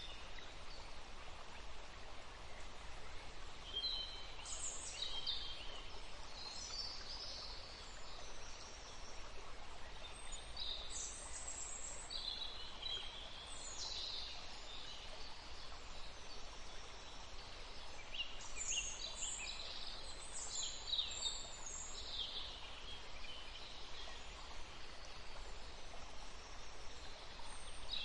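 Forest ambience: songbirds chirping in many short, high calls scattered throughout, over a steady soft background hiss.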